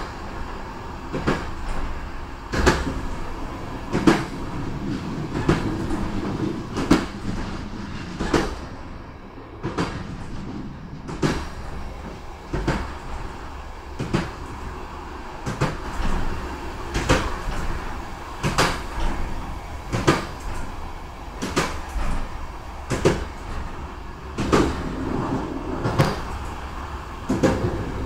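A train running along jointed track, its wheels knocking sharply over the rail joints about every second and a half over a steady rumble, heard at the train's rear door.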